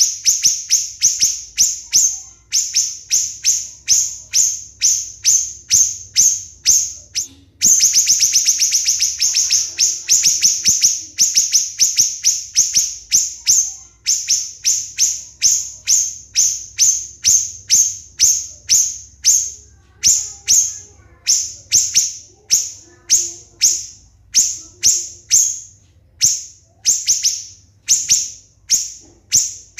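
Siri-siri bird singing in rapid 'tembakan' bursts: short, shrill, high-pitched notes repeated about twice a second, with a faster dense trill of notes about a third of the way in.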